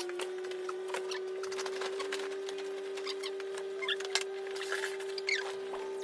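Handling noise of pram parts: scattered clicks, ticks and short squeaks of plastic being worked, over a steady low hum.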